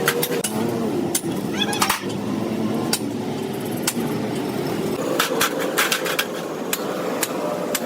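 Repeated sharp metallic clicks and knocks of tools and engine parts being handled, over a steady workshop background hum.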